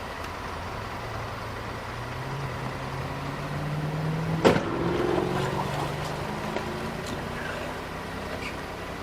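Car engine and road noise, the engine note rising steadily as the vehicle accelerates. A single sharp knock about four and a half seconds in, after which the engine runs on at a slightly lower, steady pitch.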